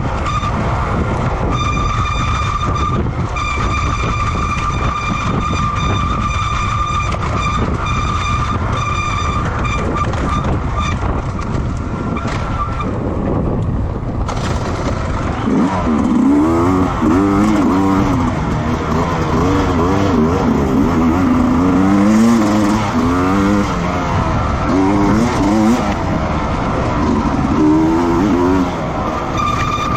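Racing motorcycle engines on a track. For the first half a steady high whine runs over a constant engine rumble. From about halfway, engines rev up and drop back again and again as they change gear.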